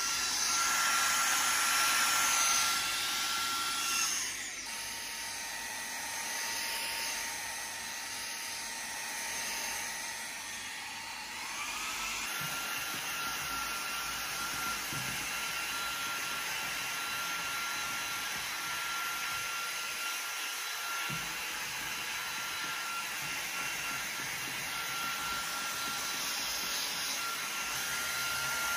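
Vacuum cleaner running with a steady high whine. Its pitch drops about four seconds in and rises back after about eleven seconds.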